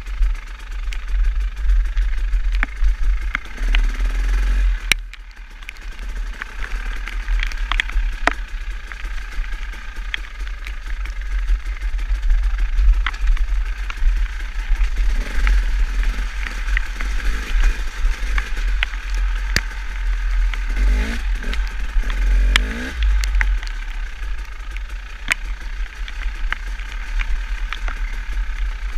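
Riding noise from a motorcycle: wind rushing over the microphone with the engine running underneath, scattered sharp ticks throughout, and a couple of brief changes in engine pitch a little past two-thirds of the way through.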